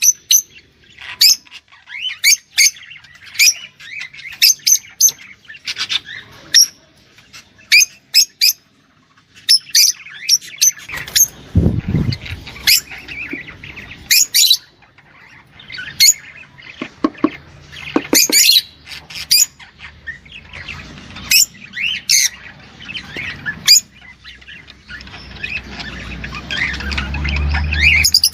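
Ornamental cage bird calling in a fast run of short, sharp, high chirps and squawks, with a low rumble underneath about eleven seconds in and again near the end.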